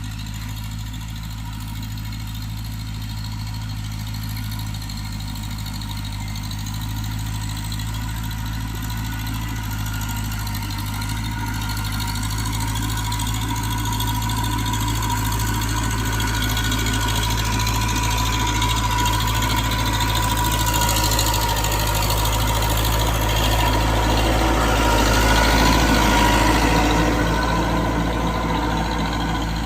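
Tractor engine running steadily, growing gradually louder as it draws nearer, loudest about 26 seconds in, then easing off slightly near the end.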